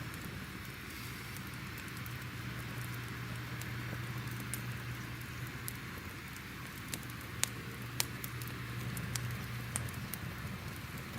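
Crackling fire: a steady hiss and low rumble with scattered sharp pops, the loudest two about two-thirds of the way through.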